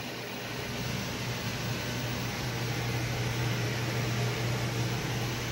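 Steady mechanical hum with an even rush of air, like a running fan or blower.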